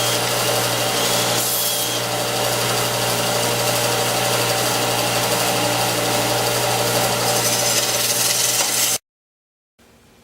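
Belt sander running steadily with a steady hum, a wooden strip grinding against the belt as it is sanded round into a dowel. The sound cuts off abruptly near the end.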